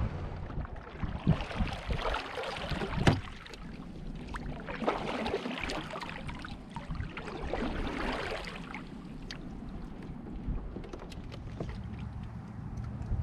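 Knocks and water swishes around a fishing kayak, with a sharper knock about three seconds in and swelling swishes later on.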